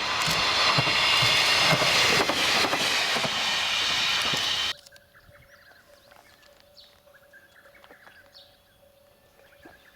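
JR Shikoku KiHa 32 diesel railcar passing close by, its engine and wheels loud with a rhythmic clatter over the rail joints. The sound cuts off abruptly a little over four seconds in, leaving a quiet scene with scattered bird chirps.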